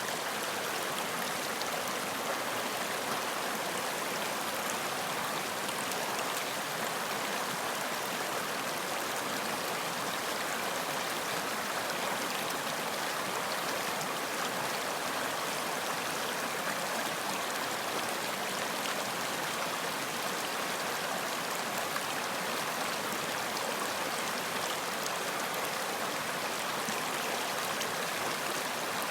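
Running water flowing steadily, an even rushing hiss that does not change.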